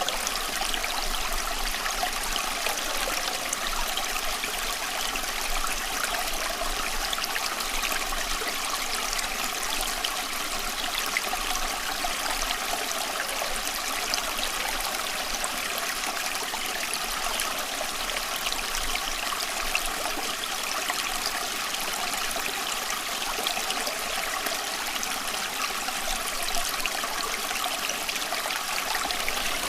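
Running water: a steady, unbroken trickling and splashing flow, like a stream.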